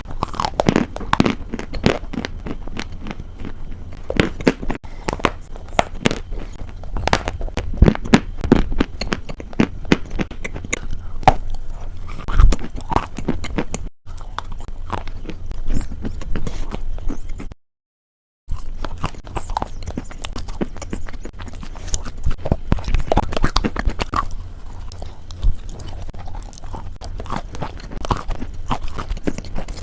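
Close-miked chewing and biting of crunchy food, a dense run of sharp crackling crunches, broken by about a second of dead silence a little after halfway.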